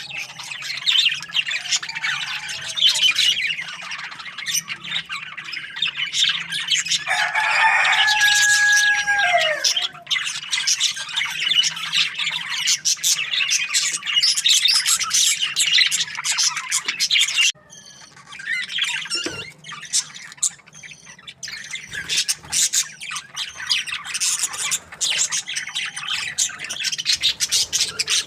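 A flock of budgies chattering and chirping without pause, a dense chorus of quick chirps and squawks. About a quarter of the way in, a louder, longer call with a held tone that falls away at its end rises above the chatter. The chatter breaks off suddenly for a moment a little past halfway, then starts again.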